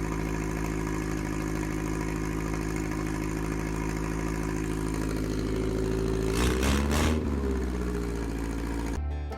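Air-cooled VW Baja Bug engine idling steadily, blipped once about six and a half seconds in so that the pitch rises and falls back to idle.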